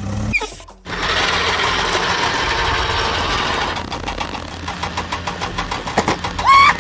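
Cartoon vehicle engine sound effect running steadily, then settling into a rapid, even pulsing like an idling or knocking motor. A short pitched sound that bends in pitch comes near the end.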